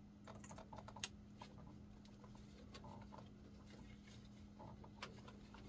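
Near silence with faint small clicks and rustles as electrical wires are handled and joined, over a steady low hum.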